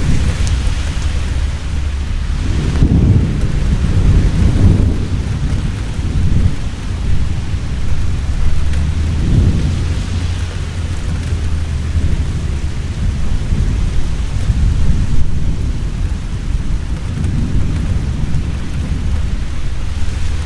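Heavy rain falling steadily, with deep rolls of thunder that swell and fade several times, the loudest a few seconds in.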